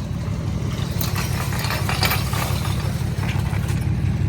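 S197 Ford Mustang's engine running with a steady, deep, pulsing rumble, with a spell of hiss and rattling from about one to three seconds in.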